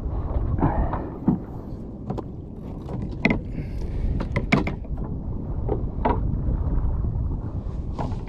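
Wind rumbling on the microphone aboard a kayak at sea, with a handful of sharp clicks and knocks scattered through it.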